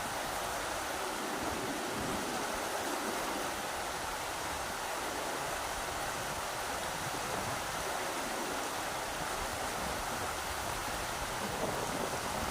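Rushing river water, a steady, even rush of flowing water.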